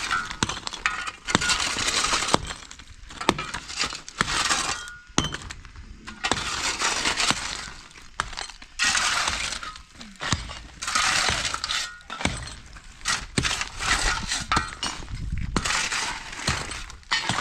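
Demolition rubble clattering and breaking in repeated bursts, full of sharp clinks and cracks like brittle material or glass shattering.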